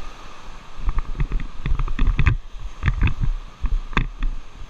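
Whitewater rushing and splashing against an inflatable river raft, with irregular splashes and knocks and low rumble from water and wind hitting the microphone.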